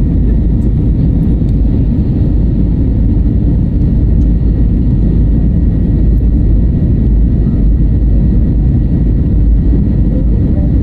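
Airbus A320neo jet airliner taking off, a loud, steady rumble of engines and airflow, with a faint steady high tone over it.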